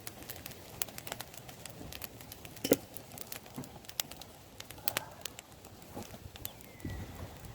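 Wood campfire crackling, with irregular sharp pops and snaps; the loudest pop comes a little under three seconds in.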